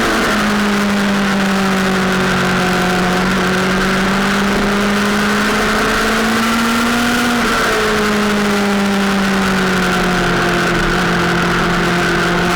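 Sportbike engine running hard under load at a steady high pitch. The pitch creeps upward, drops sharply about seven and a half seconds in, then settles and climbs again. A constant rush of noise runs underneath.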